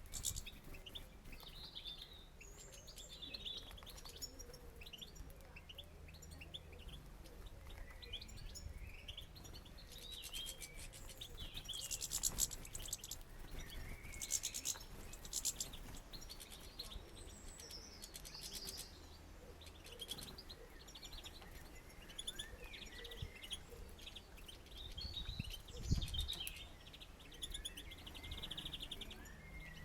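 Small songbirds at a feeder chirping and twittering in short high calls, with bursts of rapid wing fluttering as birds fly in, land and squabble. A single dull thump comes about 26 seconds in.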